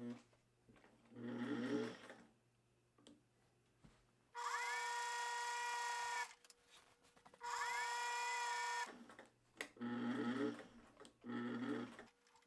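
Electric sewing machine stitching in stops and starts: a few short runs of under a second and two longer, louder runs of about two seconds and a second and a half, the motor whining up in pitch as each run begins.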